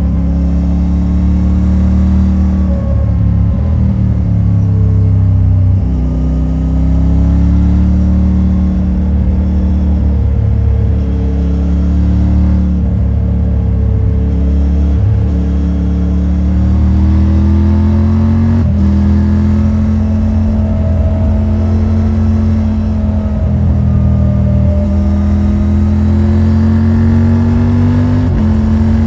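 Triumph Tiger 900 Rally Pro's three-cylinder engine through its stock exhaust. It runs under load with its note repeatedly rising and then falling back, as with throttle and gear changes.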